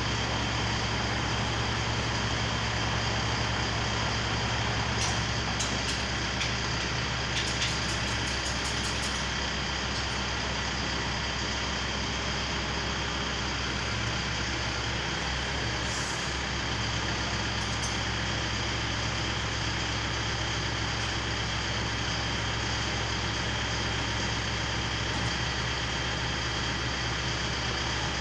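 Engine of a manlift truck running steadily with an even low hum, with a few light clicks about five to nine seconds in and again around sixteen seconds.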